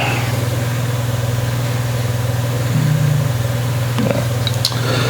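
A steady low hum throughout, with a few faint clicks about four seconds in.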